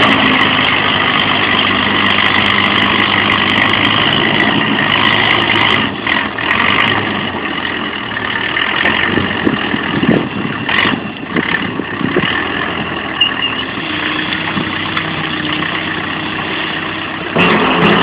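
A vehicle engine running, steady for the first several seconds, then uneven, with a few knocks and clatter about halfway through.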